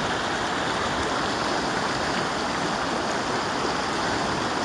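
River water rushing steadily, a constant even noise of flowing current.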